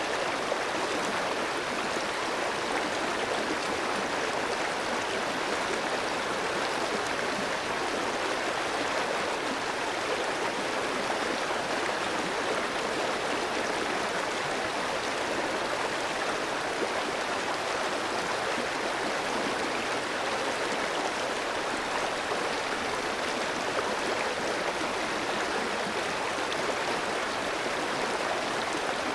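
Clear stream flowing over rocks, a steady rush of water with a dense babble and no pauses.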